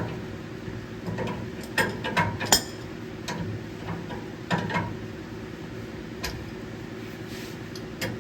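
Irregular metallic clicks and clinks of hand tools being worked, about a dozen, over a steady low hum.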